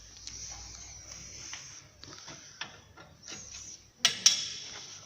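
Hand tools working on steel suspension bolts: scattered small clicks and scraping, then two sharp metallic clanks about four seconds in.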